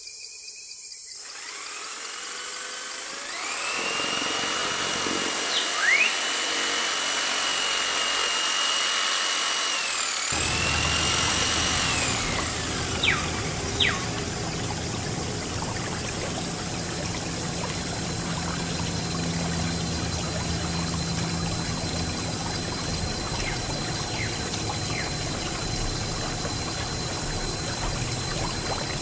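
A small electric motor spins up with a high whine about three seconds in, runs steadily, then winds down about ten to twelve seconds in. After that, water pours and trickles steadily.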